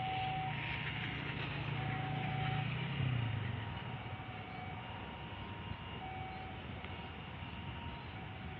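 Low engine rumble, strongest for the first three seconds and easing off after that. Over it, a single high beep sounds briefly a few times, about two seconds apart or more.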